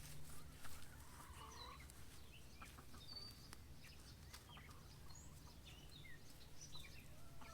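Faint chirps of small birds and a chicken's soft call over quiet garden ambience, with light scrapes and ticks of soil being dug by hand.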